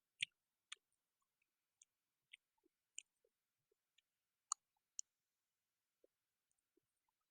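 Faint, sparse mouth clicks and smacks of someone chewing food close to the microphone, about a dozen short ticks spread unevenly, with a couple of slightly sharper ones around the middle.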